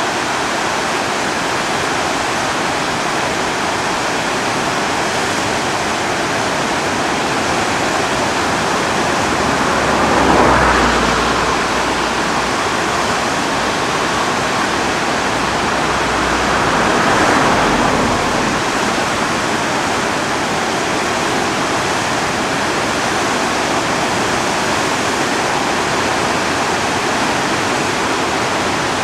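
The Driva river in heavy flood, a steady loud rush of fast, high water. Two brief swells in loudness come about ten and seventeen seconds in, with a low rumble under the first.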